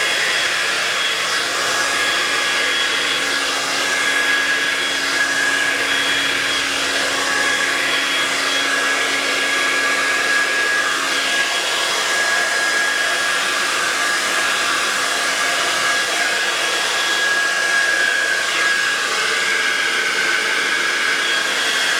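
Hair dryer running steadily, a rush of air with a high whine, used to blow wet acrylic pour paint across a canvas. A low hum underneath fades out about halfway through.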